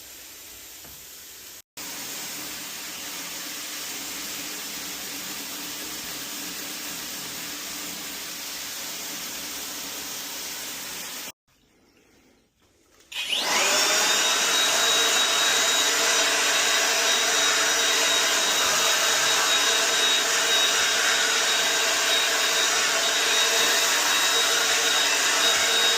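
A steady hissing rush of noise, cut off twice; then, a little past halfway, a vacuum cleaner motor starts with a rising whine and runs steadily and loudly with a high whistle.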